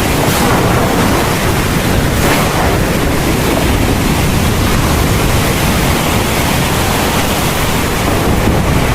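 Heavy thunderstorm rain pouring in a steady, dense hiss, with a low rumble running underneath.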